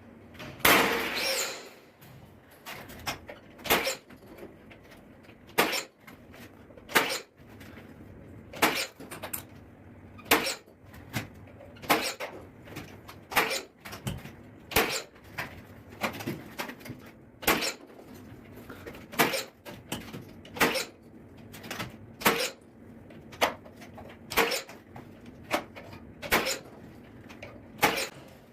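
Hilti BX 3 battery-powered nail gun firing nails into a ceiling to fix mounting pads: about twenty sharp shots, one every second or so, the first the loudest.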